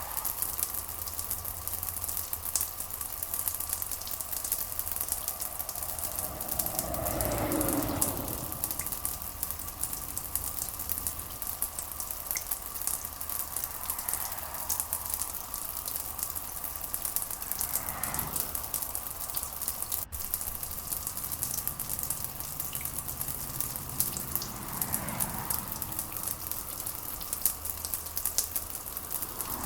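Steady rain pattering with a dense crackling hiss, with a few soft swells of lower sound under it.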